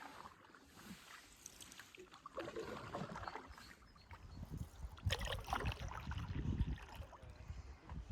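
Packraft being paddled: irregular splashes and drips of a paddle working the water, with a low rumble coming in during the second half.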